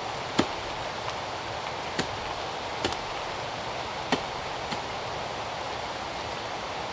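Chopping: five sharp strikes at irregular intervals, one to one and a half seconds apart, over a steady rushing noise.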